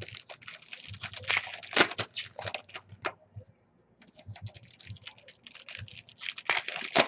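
Trading-card pack wrappers being torn open and crinkled, with cards rustling and flicking against each other: a dense run of small crackles and clicks, with a pause of about a second near the middle.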